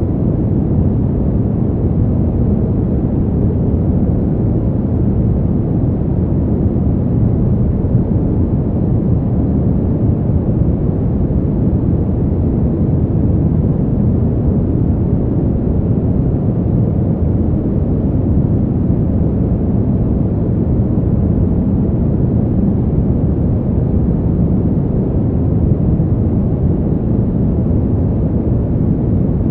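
Steady, deep rushing wind noise, even in level with no gusts or separate sounds, strongest in the low end and muffled, with little hiss.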